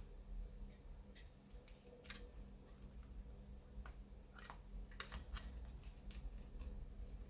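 Faint, scattered clicks and taps of hard plastic model parts as a clear screen's locating pins are pressed into a fairing by hand, over a low steady hum.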